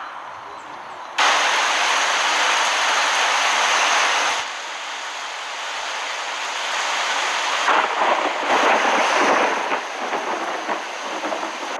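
Heavy rain hissing. It gets suddenly louder about a second in, drops back abruptly about three seconds later, and swells again near the eighth second.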